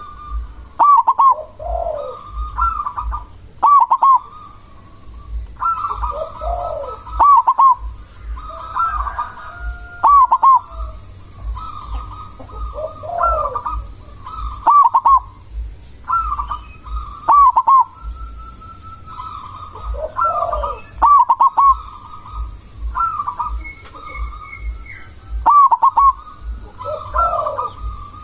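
Zebra dove (perkutut) cooing its song, the same rolling phrase repeated every second or two, with a faint steady high-pitched tone underneath.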